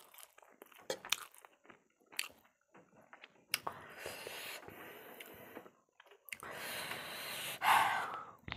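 Close-miked eating sounds: a person chewing spicy instant noodles, with scattered wet mouth clicks, then two longer noisy stretches of chewing and mouth noise, and a bite into a boiled egg near the end.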